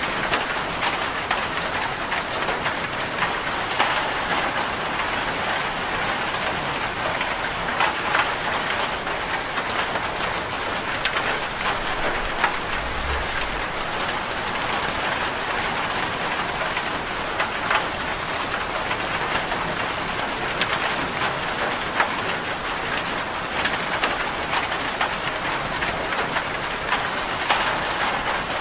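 Steady rain falling, an even hiss sprinkled with many sharp drips and taps. A brief low thud comes near the middle.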